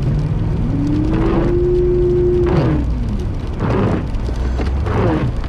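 Car engine running inside the cabin, its pitch rising about a second in, holding briefly, then falling back, as the car struggles on a snowy hill. A swish repeats about every second and a quarter.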